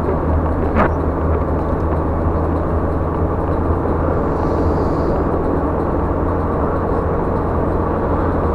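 A car driving along a highway: steady drone of engine and tyres, with one brief click about a second in.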